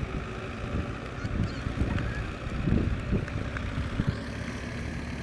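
Tractor engine running hard, with uneven low surges as it works to climb out of a ditch.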